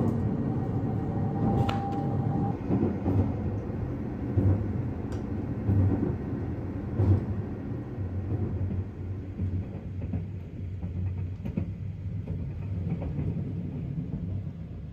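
Train running with a steady low drone and a few sharp knocks, the loudest about seven seconds in. A thin steady tone sounds for the first couple of seconds.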